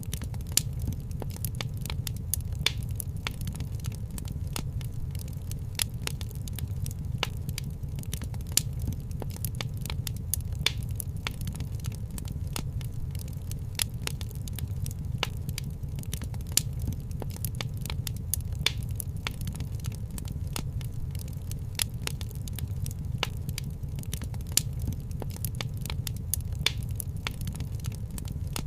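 Wood fire in a fireplace crackling, with frequent irregular sharp pops over a low, steady rumble.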